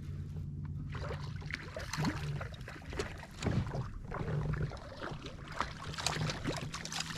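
Sounds of a fishing kayak on the water: repeated splashing, clicks and knocks from about a second in, over a steady low hum.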